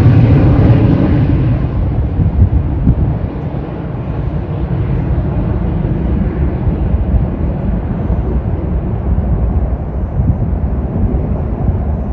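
Jet airliner's engines at takeoff thrust, a loud deep rumble moving away. The hissing top of the sound fades over the first few seconds, leaving a low rumble.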